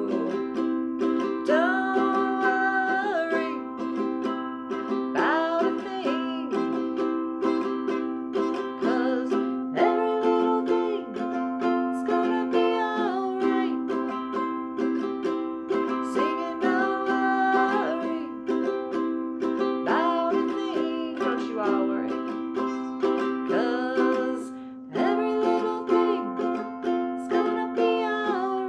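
Strummed ukulele chords in a steady rhythm, with a wordless voice gliding over them, in a small room.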